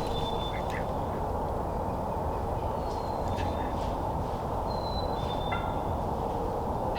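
A wild turkey gobbling faintly about five and a half seconds in, over a steady background rush. A few short, thin, high bird notes come and go.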